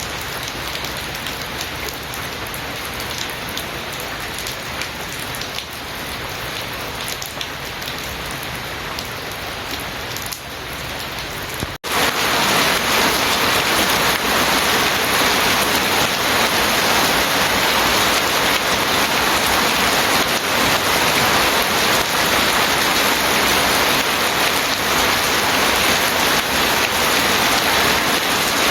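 Steady rainfall. About twelve seconds in, the sound cuts out for an instant and comes back louder, then holds steady.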